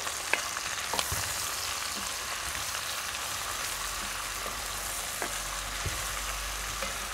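Pork strips, smoked sausage and diced onions sizzling in oil in a cast-iron pot as the onions are sweated, stirred with a wooden spoon. A few light knocks of the spoon against the pot.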